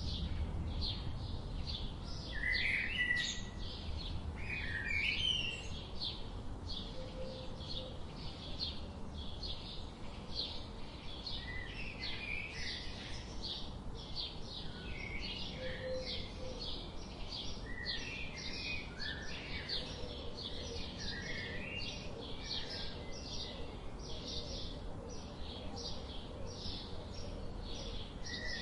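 Small songbirds chirping steadily: a fast string of short high chirps, several a second, with now and then a lower warbled call over a faint low rumble.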